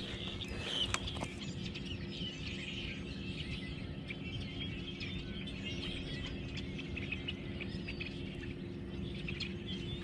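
Birds chirping and calling, with a faint steady low hum underneath.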